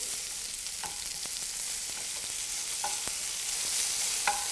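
Onion and tomato slices sizzling in oil in a hot frying pan, a steady hiss, with a few light clicks of metal tongs against the pan as the onions are turned.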